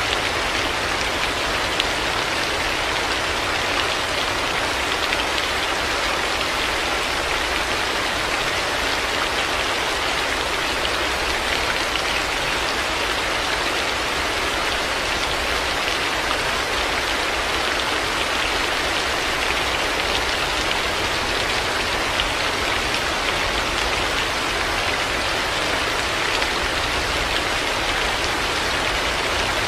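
Heavy rain falling steadily: a dense, even hiss of countless drops with no let-up.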